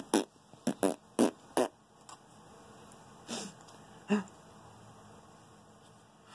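A man making fake fart noises: about five short, quick blasts in the first two seconds, then two weaker ones a little after three and four seconds.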